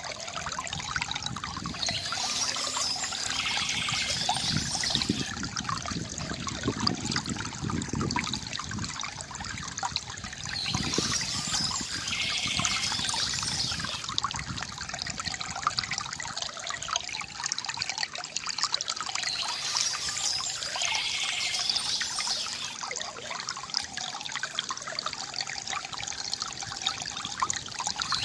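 Water trickling and gurgling from a bamboo fountain, running steadily. A brighter, hissier stretch of about three seconds comes back roughly every nine seconds.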